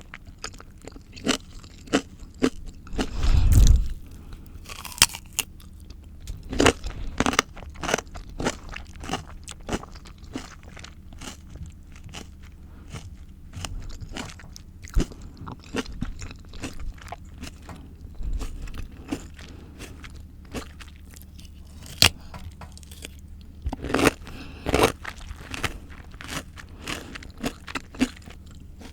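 A person biting and chewing crunchy raw fruit and vegetables (cucumber, apple, garden egg, carrot) close to the microphone: a steady run of crisp crunches, with louder bites about three seconds in and again around twenty-four seconds.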